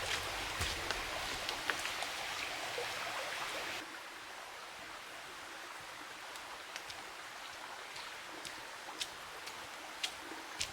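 Water after rain: a steady rushing hiss with scattered drops ticking. It drops to a softer level about four seconds in.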